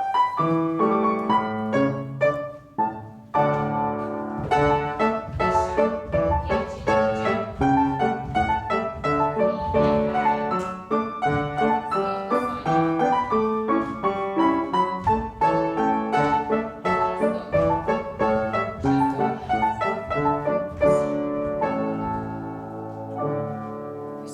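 Piano playing a brisk, evenly paced ballet-class accompaniment for sautés (small jumps), getting softer over the last couple of seconds.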